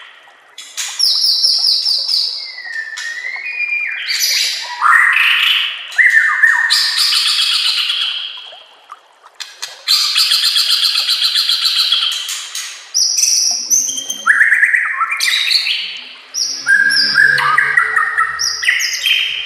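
White-rumped shama (murai batu) singing a loud, varied song: phrase after phrase of rapid trills, buzzy rattles and sweeping whistles, with a short pause about nine seconds in.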